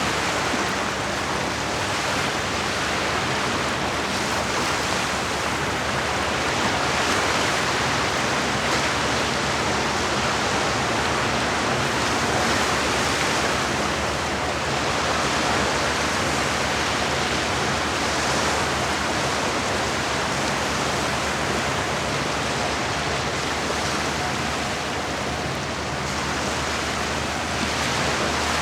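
Steady rush of lake water washing against the shore, an even hiss with no separate splashes, over a faint low hum.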